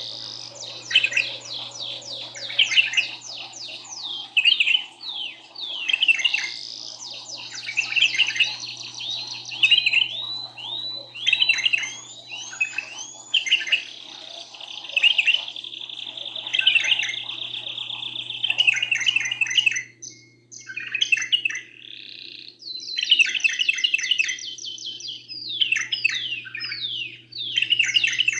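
Canary and bulbul singing in a continuous stream of fast trills, rapid repeated notes and rolling phrases, with a brief lull about twenty seconds in.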